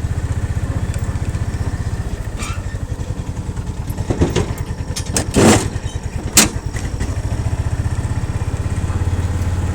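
A small engine running steadily at idle, with a few sharp knocks and clanks between about four and six and a half seconds in.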